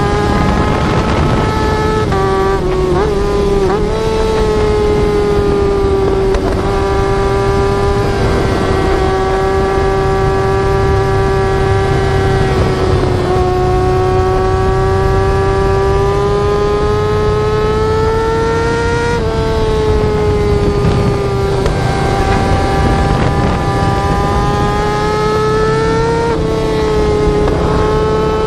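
Yamaha R6 sport-bike engine held at high revs, its high note holding fairly steady and drifting gently up and down, with a brief dip and wobble about three seconds in. Wind and road noise run underneath.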